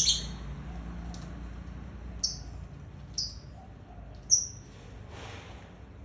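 Small bird giving short, sharp, very high-pitched chirps, four of them spaced a second or so apart.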